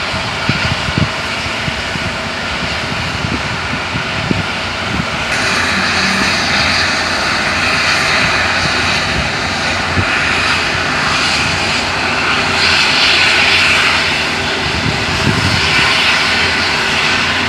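A truck's diesel engine runs steadily while its load of oil palm fruit bunches is unloaded at a loading ramp. Scattered thumps come in the first few seconds, and from about five seconds in a louder rushing noise rises over the engine.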